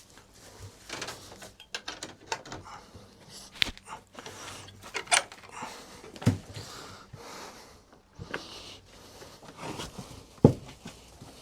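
Rustling, scraping and clattering of a rabbit hutch being cleaned out by hand, old straw shovelled out and fresh straw put in, with two sharp knocks, one about six seconds in and a louder one near the end.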